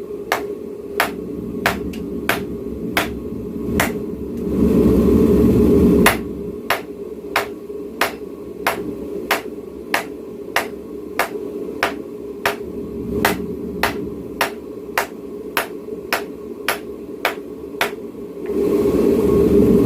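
Hammer blows on hot steel forging a knife blade, a steady series of sharp strikes at about two a second, over the steady roar of the forge. The strikes pause twice, about five seconds in and near the end, and the forge roar comes up loud in those gaps.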